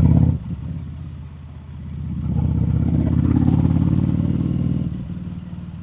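Harley-Davidson Street Rod 750's liquid-cooled V-twin engine running under way, with a short loud surge at the very start. It pulls harder from about two seconds in and then eases off near the end.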